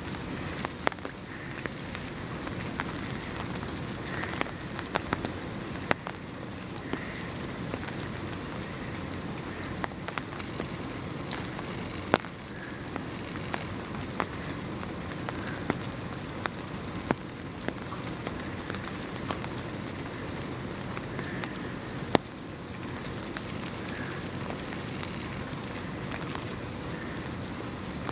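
Steady rain falling, with single heavier drops landing as sharp, irregular ticks over the hiss of the downpour.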